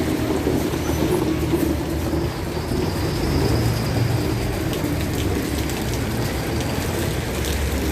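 Heavy rain falling, with a steady low rumble underneath.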